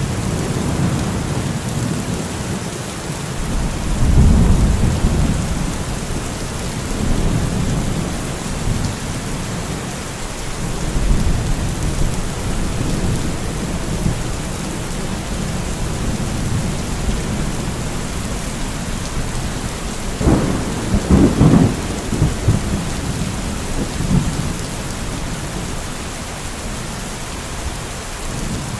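Steady rain in a thunderstorm, with thunder rumbling in low swells: one about four seconds in, another around eleven seconds, and the loudest a little past twenty seconds.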